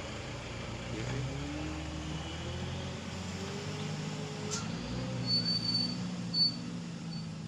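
Heavily loaded truck's engine running as it passes, its pitch slowly shifting. A sharp click about halfway through, then a few short high squeals near the end.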